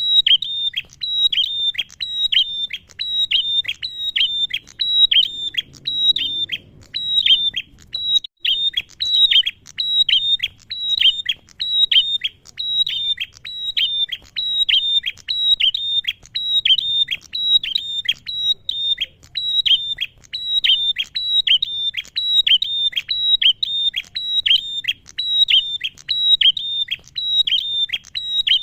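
Male prenjak (prinia) calling: a long run of short, high notes, each dropping sharply in pitch, repeated about two to three times a second without a break.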